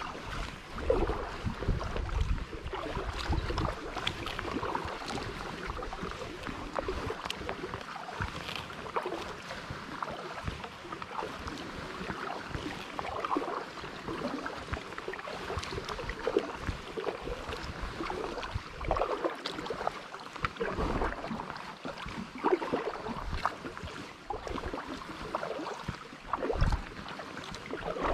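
Kayak paddle strokes dipping and splashing in river water, a short splash every second or two, with occasional gusts of wind rumbling on the microphone.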